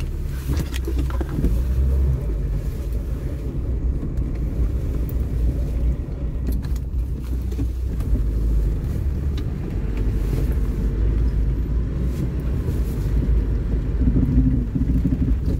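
Car engine running steadily while driving up a snow-covered mountain track: a continuous low rumble with a few light knocks.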